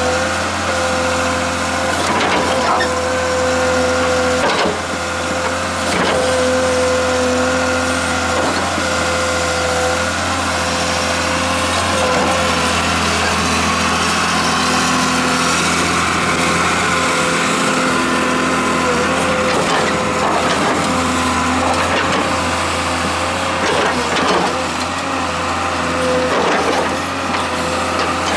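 Komatsu PC200LC-6 excavator's diesel engine running steadily under a steady high tone, with knocks and clanks every few seconds as the machine works.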